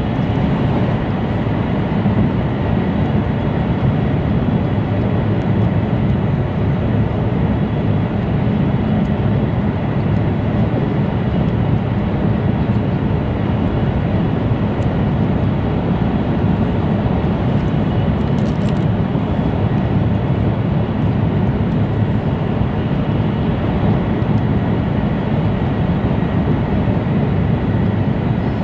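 Steady running noise inside a car of an E2 series Shinkansen at speed: a continuous low rumble of wheels on rail, with a faint steady high tone above it.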